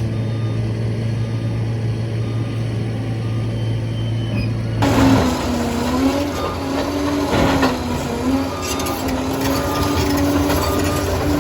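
Liebherr 746 crawler dozer's diesel engine running with a steady low hum; about five seconds in the sound turns suddenly louder and fuller, with a wavering whine and clatter as the machine works.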